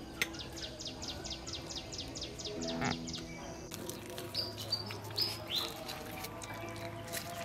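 A small bird singing a fast trill of short, falling high chirps, about seven a second, for the first three seconds or so, then a few separate whistled notes. A sharp click sounds right at the start.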